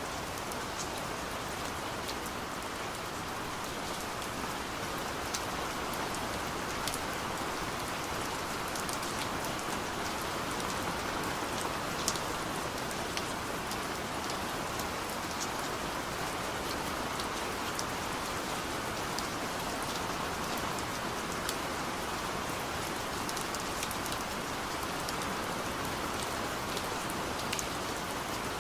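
Steady rain falling on a car's roof and windows, heard from inside the cabin, with single drops ticking sharply here and there.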